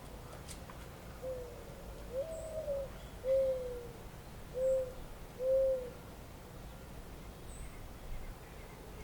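A bird's soft, low hooting call of five notes, running from about one second in to about six seconds in. The second note slides up and is the highest, and the later notes dip and fall away. A few faint, high chirps of a small bird sound now and then over a steady outdoor hiss.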